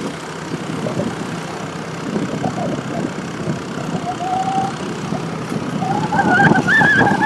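Motorcycle running through street traffic, its engine and road noise steady throughout. A brief steady tone sounds about four seconds in, and a louder wavering tone comes near the end.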